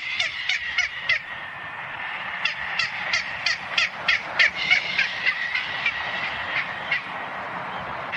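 Frigatebird calls: rapid series of short, high calls, each sweeping down in pitch, about three a second. One run stops a little over a second in and a second run picks up about two seconds later, over a steady background hiss.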